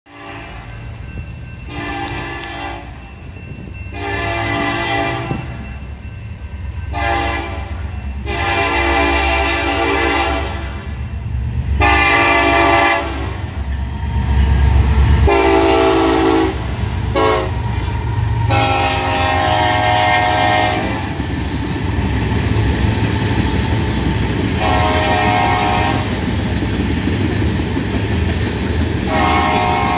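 Diesel freight locomotives led by a BNSF EMD SD70ACe blow their air horn in the long-long-short-long grade-crossing pattern twice over, then give two more single blasts near the end. Under the horn, the engines' rumble builds as the locomotives pass about halfway through. It then gives way to the steady rumble and clatter of loaded tank-car wheels on the rails.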